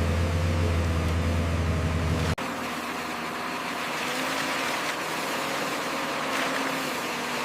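Heavy diesel construction machinery engine running steadily. A little over two seconds in, the sound cuts abruptly to a different, noisier stretch of engine sound.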